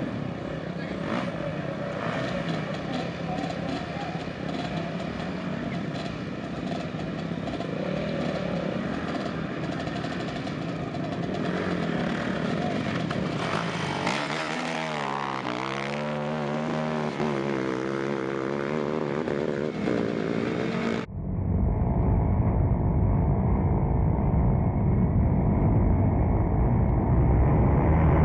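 Motocross dirt bike engines running and revving, their pitch rising and falling repeatedly. About 21 seconds in, the sound cuts abruptly to a louder, duller rumble.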